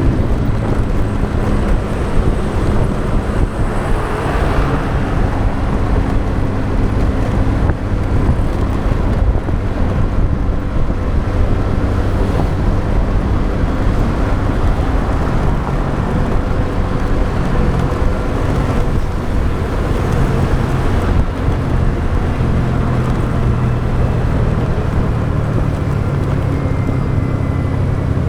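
Motorbike engine running steadily on the move, with wind buffeting the microphone and road and traffic noise around it. A brief swell of noise comes about four seconds in.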